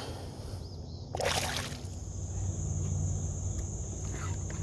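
A short splash of water beside the kayak about a second in, lasting under a second, then a steady high insect buzz.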